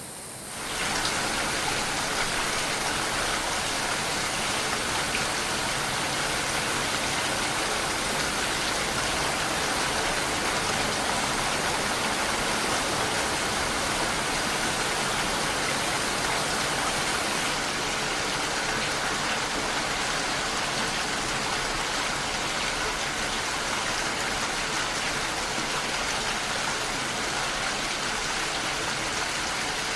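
Steady rain, an even hiss of falling rain with no distinct drips or thunder. It comes up sharply within the first second and then holds level.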